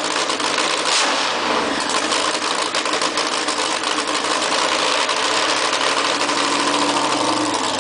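Nitromethane-burning engine of a custom Thunderbird running loud at a fast idle on about 85% nitro. Its revs sag about a second in, then creep slowly back up near the end.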